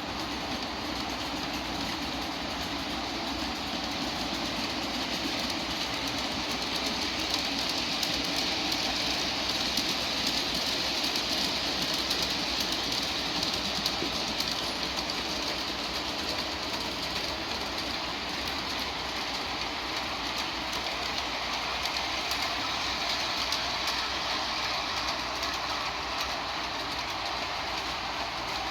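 Long G-scale model freight train rolling along floor-laid track behind four USA Trains F7 diesel units: a steady rumble of many cars' wheels with a constant clicking over the rail joints, growing louder toward the middle and easing off again.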